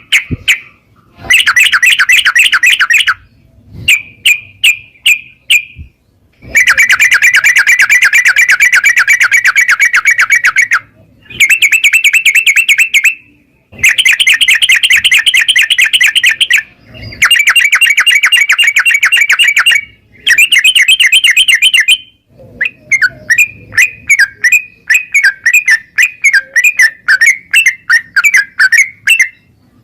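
Sooty-headed bulbul singing in long, rapid chattering bouts of a few seconds each, broken by short pauses.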